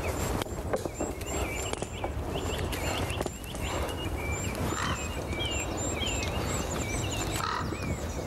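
Axe blows chopping into a standing pine trunk, a run of sharp wooden knocks as the felling cut is made on the trunk. Small birds chirp and sing throughout.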